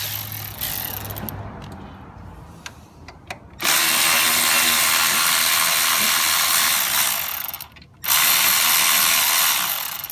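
Milwaukee cordless power ratchet running in two long bursts, about four seconds and then about two seconds, backing out the 13 mm bolts that hold an AC compressor to the engine block. A few light clicks and knocks come first.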